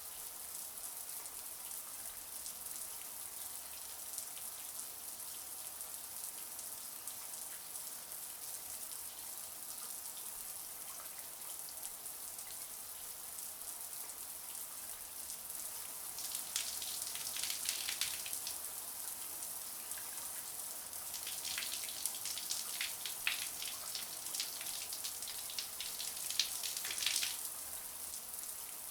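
Shower spray running steadily with a high, even hiss. About halfway through and again later, stretches of irregular, louder splattering come in as the falling water strikes something closer.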